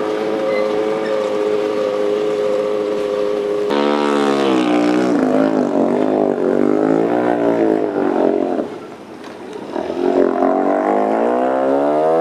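Antique outboard motor running, steady at first; from about four seconds in its pitch rises and falls repeatedly as it revs, it drops quieter for a moment near the ninth second, then climbs again.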